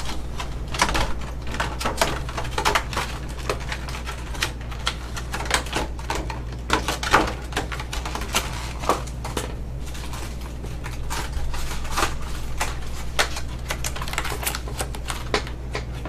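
Rain hitting a window, heard as irregular sharp taps several times a second over a steady low hum.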